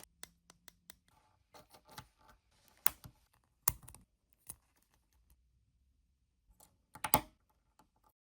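Scattered light clicks and taps of small objects being handled, irregular, with a few sharper ones around three and four seconds in and a short cluster about seven seconds in.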